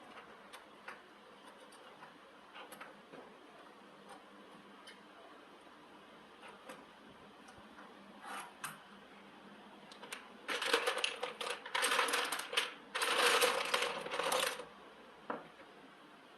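Small metal parts clinking: scattered light clicks, then about four seconds of busy metallic clattering and rattling starting some ten seconds in.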